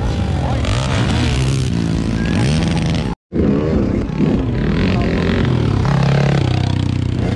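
Underbone motocross motorcycle engines revving, the pitch rising and falling as the bikes accelerate and ease off. The sound cuts out briefly about three seconds in.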